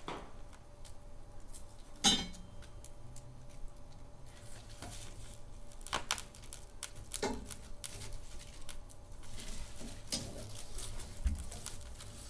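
Wood fire crackling in a fireplace: scattered sharp pops and snaps at irregular intervals, with one loud pop about two seconds in.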